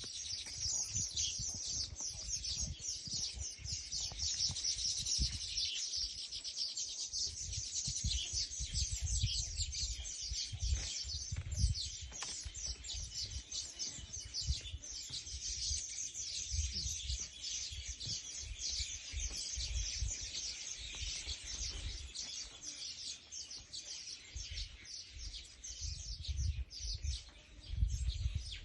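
Many small birds chirping rapidly and continuously in a dense chorus, with a low rumble that swells and fades underneath.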